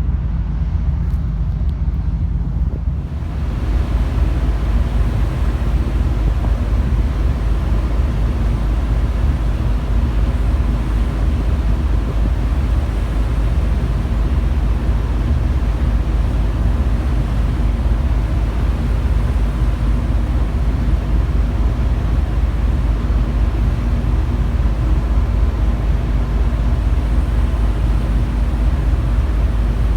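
Steady low rumble of a car ferry's engines, with wind on the microphone and rushing sea noise that grow louder about three seconds in.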